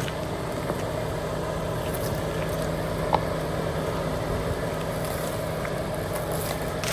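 Car engine running steadily at low speed while the car crawls over a rocky off-road track, with one light knock about three seconds in.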